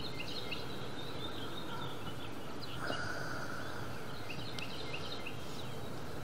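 Birds chirping in quick, repeated short notes over a steady background noise.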